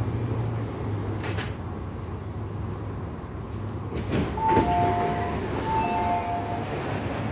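MTR Tung Chung Line CAF train's doors working with a steady low hum from the train. There are knocks from the door gear, then a two-note falling door chime sounds twice.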